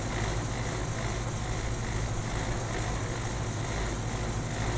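Outdoor air-conditioner condenser fan running steadily, a constant motor hum under an even whoosh of air, with the compressor not yet running.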